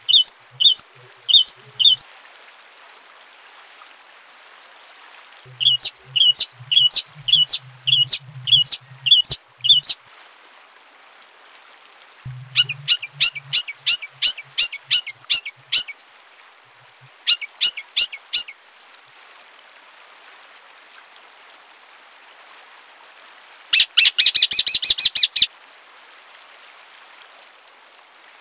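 Songbird singing in bursts of sharp, evenly repeated high notes, about three to four a second, with pauses between the phrases, then a short dense buzzy trill near the end. A faint steady hiss fills the gaps.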